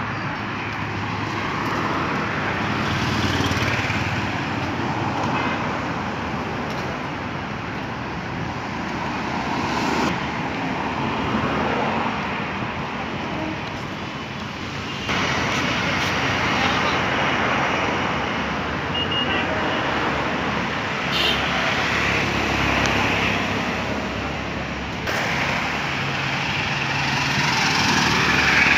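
Road traffic noise: a steady wash of passing cars and other vehicles that swells and fades, with sudden shifts in level about fifteen and twenty-five seconds in.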